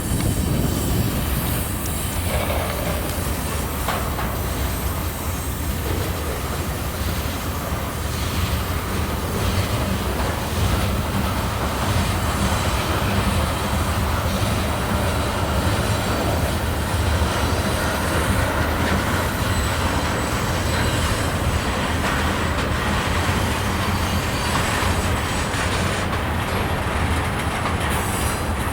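Norfolk Southern freight train rolling steadily along the track, its cars' wheels running on the rails.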